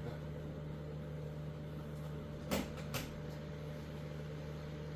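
Steady low hum in a quiet room, with two short sharp clicks about half a second apart midway through.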